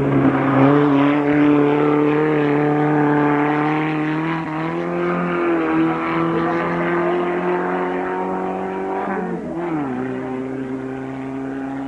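A hill-climb race car's engine running hard at a steady, high pitch. Its pitch falls about nine to ten seconds in.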